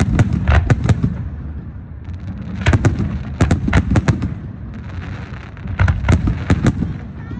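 Fireworks bursting in the sky: three quick volleys of sharp bangs a couple of seconds apart, with a low rumble carrying on between them.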